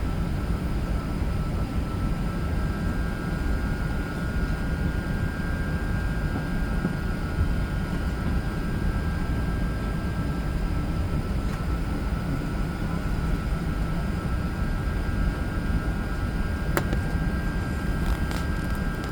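Steady low rumble and hum inside a parked Airbus A380's cabin, with two faint steady high tones over it. There is a single sharp click near the end.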